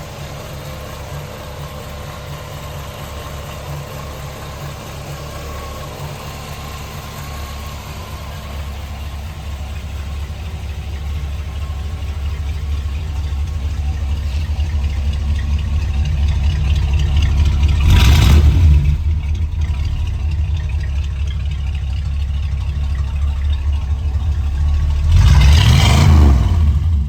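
1973 Pontiac LeMans GT's engine idling through its exhaust, its steady low note growing gradually louder. It is then revved twice: a short blip about 18 seconds in and a longer one near the end.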